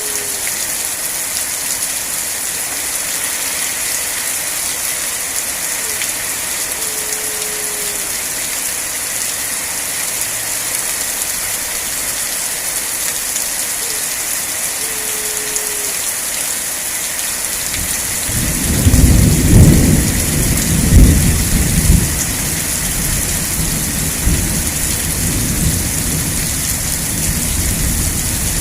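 Steady rain hiss throughout. About two-thirds of the way in, a roll of thunder rumbles up with several loud low peaks over a few seconds, then trails off into a lower rumble under the rain.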